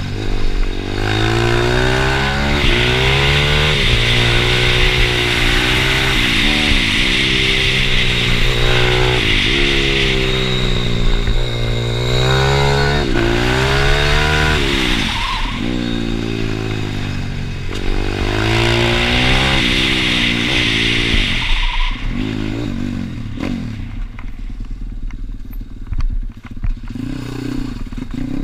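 Pitbike's single-cylinder engine being ridden hard, its revs climbing and dropping again every two to three seconds. Over the last few seconds it falls back to low revs and gets quieter.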